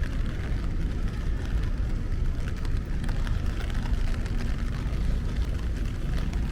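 Rainy city street ambience: a steady low rumble under an even hiss of rain, with faint scattered ticks of drops.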